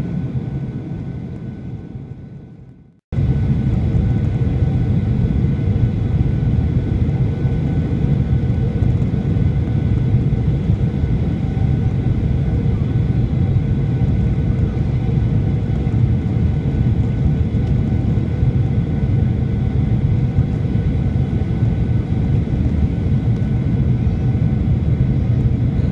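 Boeing 737-800 cabin noise: the steady drone of its CFM56-7B turbofan engines and airflow, with a few steady whining tones over it. The sound fades out and cuts off about three seconds in, then starts again abruptly and runs on steadily.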